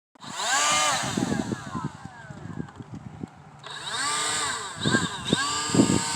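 A small power tool's motor run up twice, each time rising in pitch, holding, then winding down, with a few knocks in between.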